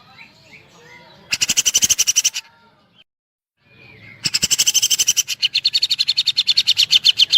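Grey-cheeked bulbul (cucak jenggot) giving rapid, evenly repeated woodpecker-style trills: a short burst about a second in, then after a brief silence a longer burst of about three seconds, roughly thirteen high notes a second. Faint calls of other birds lie underneath.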